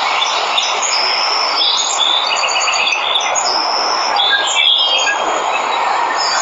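Steady rush of a waterfall with several birds chirping and whistling over it, including quick runs of repeated high notes in the middle.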